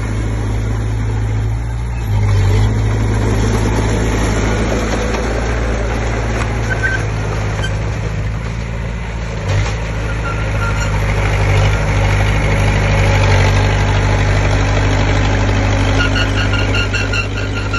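Komatsu D20P bulldozer's diesel engine running steadily under working load, getting louder about two seconds in and again around thirteen seconds.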